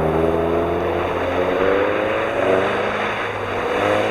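Engines of several ice-racing cars running together, one revving up in a slow rise and falling back about two and a half seconds in, over a steady hiss.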